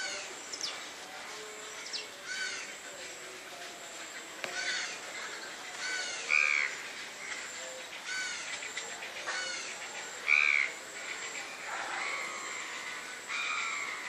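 Birds calling: harsh, caw-like calls repeated every second or two, the loudest about six and ten seconds in.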